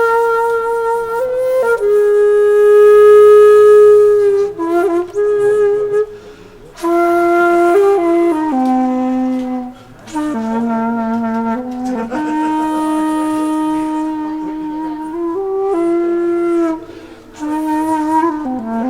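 Background music: a solo wind instrument plays a slow melody of long held notes, with brief pauses between phrases.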